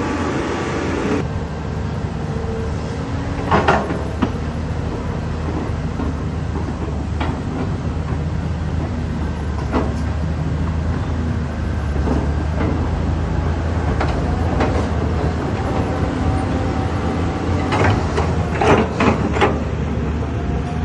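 Diesel engine of a CAT 320D hydraulic excavator running steadily under digging load, with a few sharp knocks and clanks, about a handful spread through and a quick cluster near the end.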